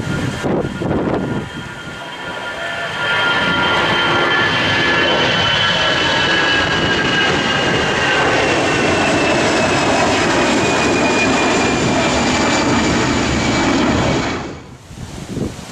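Jet airliner passing low, its engines whining with several high tones that slowly fall in pitch as it goes by. Gusty wind buffets the microphone for the first few seconds, and the sound cuts off abruptly near the end.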